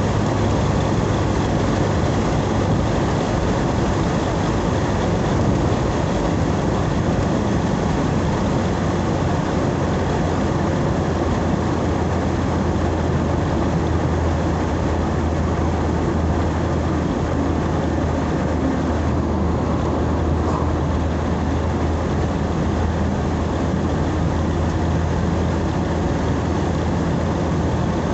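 Steady engine and road noise of a moving vehicle, heard from inside, with a constant low hum and no change in pace.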